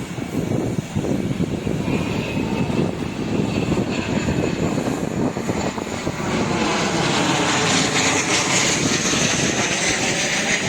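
An aircraft passing overhead, its engine noise swelling into a broad sweeping rush about halfway through, with wind buffeting the microphone.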